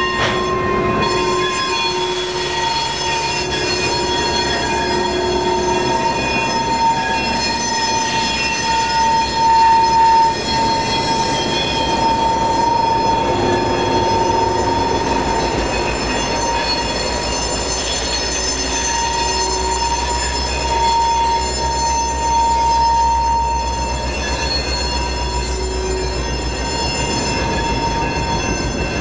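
Slow freight train passing: the steel wheels of the hopper cars give a steady, high-pitched flange squeal. About halfway through, the low rumble of EMD diesel locomotives joins in.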